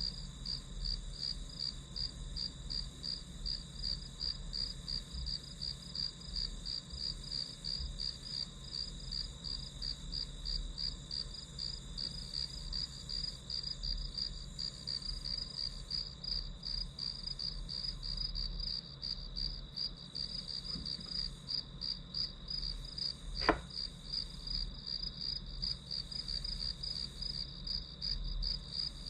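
Crickets chirping in a fast, even, continuous pulse over a low steady hum, with a single sharp click late on.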